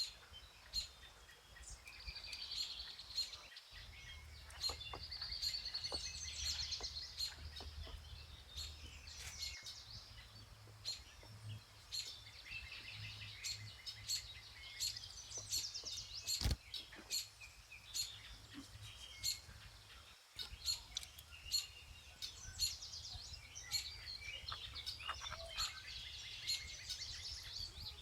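Several songbirds chirping and trilling in a spring forest, many calls overlapping, with frequent short sharp clicks among them.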